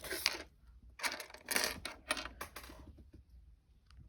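Lego pieces and their plastic bag being handled: a few short bursts of rustling and small plastic clicks in the first half, then a few faint, scattered clicks.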